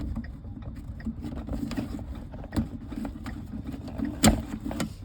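Water truck engine idling with a steady low rumble, with scattered clicks and knocks from hands working on the truck; the loudest, a sharp knock, comes about four seconds in.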